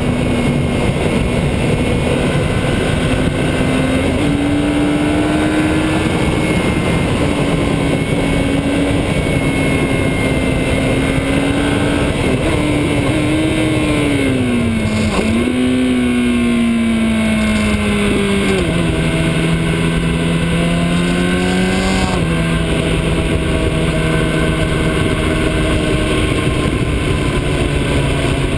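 Motorcycle engine running under way, its pitch drifting up and down with a sharp dip and recovery about halfway and two step drops in pitch later on. A steady rushing noise sits underneath.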